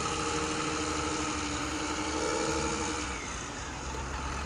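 Tractor engine running steadily with a low, even drone, dipping slightly in level about three seconds in.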